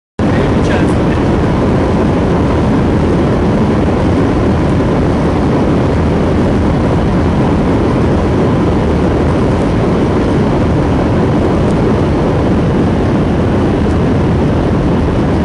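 Steady, loud noise of an aircraft in flight heard from on board: engine and airflow noise, with a faint steady whine above it.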